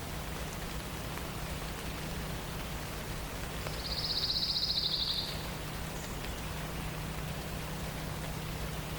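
A songbird sings one fast, high trill of rapidly repeated notes, about a second and a half long, starting about four seconds in. Under it runs a steady hiss like light rain or moving water.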